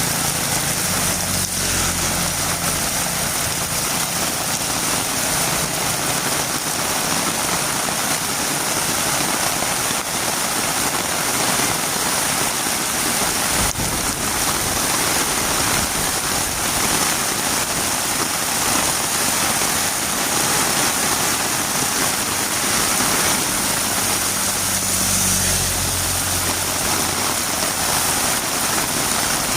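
Heavy rain falling steadily on a road, an even hiss. A faint low hum comes in briefly at the start and again about three-quarters of the way through.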